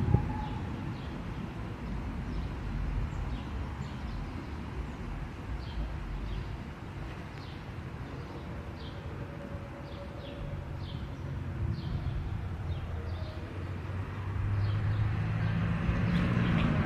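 Outdoor background rumble with short, high chirps repeating roughly once a second; the rumble grows louder near the end.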